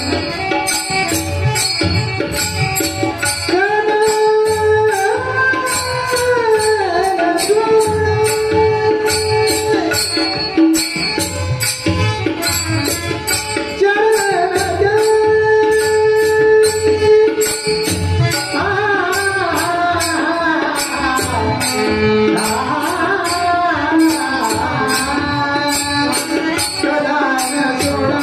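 Marathi devotional bhajan: a singer's voice holding long, gliding notes over steady strokes of small hand cymbals and a drum.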